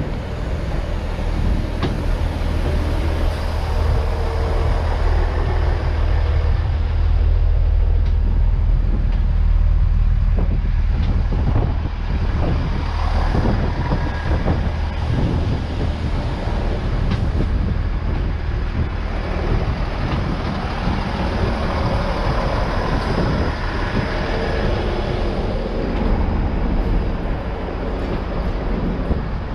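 Diesel train running through the platform with a steady low engine rumble, loudest about a third of the way in, and a run of knocks in the middle.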